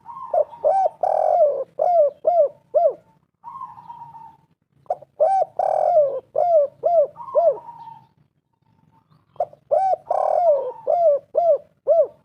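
Spotted dove (tekukur) cooing: three calling bouts a few seconds apart, each a quick run of about half a dozen arched coos.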